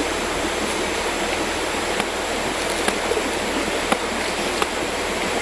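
Mountain river water rushing steadily, with a few faint clicks.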